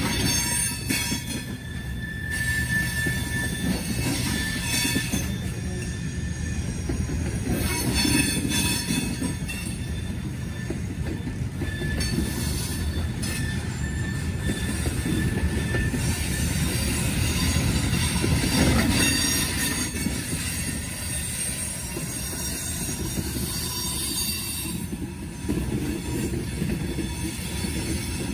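A Norfolk Southern grain train's freight cars rolling steadily past, with wheel squeal heard as thin high tones over the rumble.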